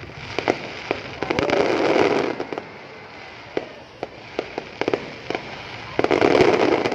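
Aerial fireworks going off: a string of sharp bangs at irregular spacing, with two louder, denser stretches, one about a second in and one near the end.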